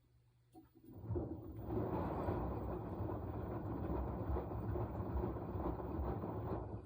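Washing machine running its wash cycle: a rumbling, churning noise starts about a second in, runs for about six seconds and cuts off near the end, over a steady low hum.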